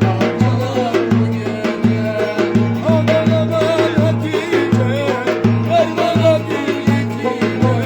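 Turkish folk dance tune (oyun havası) played live: an ornamented, wavering melody over a steady, regularly pulsing bass and drum beat, about two beats a second.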